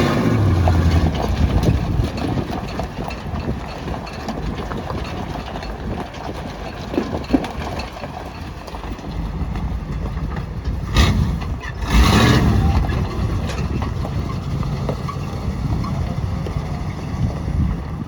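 1978 Chevrolet C30 dump truck's engine running at idle, loudest in the first second or two before settling into a steady rumble. Two brief louder bursts of noise come about eleven and twelve seconds in.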